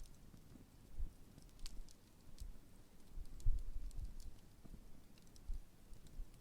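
Large open wood campfire burning, crackling with many scattered sharp pops and ticks over a low rumble that rises and falls.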